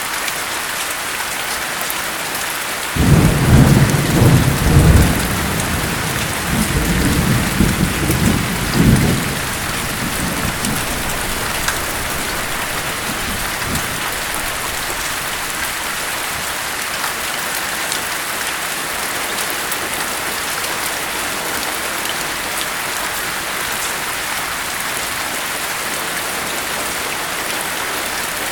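Steady rain with a rumble of thunder that starts suddenly about three seconds in, rolls for about six seconds, then dies away, leaving the rain.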